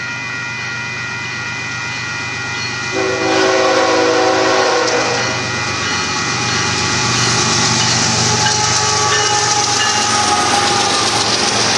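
Grade-crossing bell ringing steadily. About three seconds in, the Union Pacific locomotive's horn sounds a chord for about two seconds. The lead diesel locomotive and a string of coal hopper cars then pass close by, the wheels clattering on the rails and getting louder.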